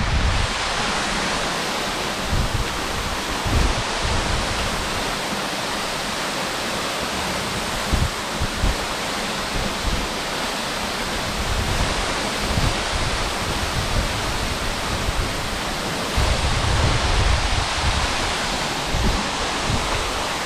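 Waterfall, the steady rush of falling water. Irregular low rumbles come and go over it, strongest about three-quarters of the way through.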